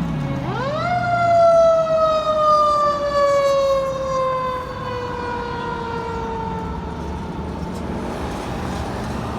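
Fire truck's mechanical siren winding up quickly in about a second, then slowly winding back down in pitch over several seconds and fading.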